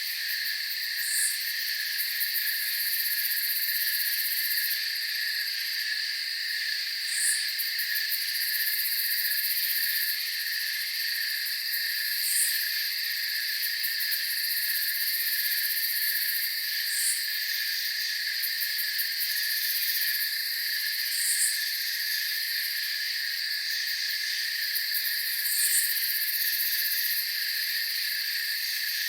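Night insect chorus: crickets trilling steadily in several overlapping pitches, with a short, higher chirp about every five seconds.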